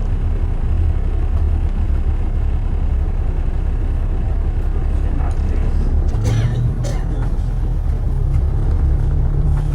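Steady low rumble of London road traffic. About six seconds in, a low engine hum joins it, along with a few brief higher-pitched sounds.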